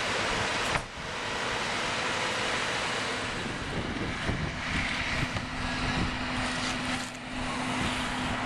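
Wind rushing over the microphone, with a steady low hum coming in about halfway.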